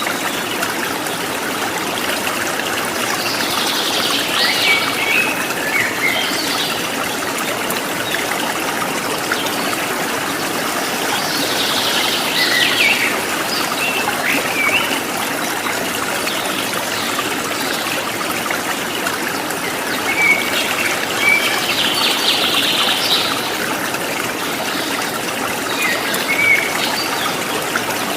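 Steady running water of a stream trickling, with birds chirping and trilling in short phrases every few seconds over it.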